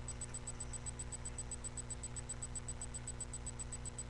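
Steady electrical hum and hiss from a webcam's microphone, with a faint, even high-pitched ticking about seven or eight times a second.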